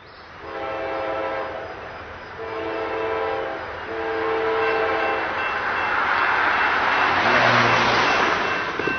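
Diesel freight locomotive's horn sounding three blasts of about a second each, then the locomotive passing close with its engine and a rising rush of rail noise.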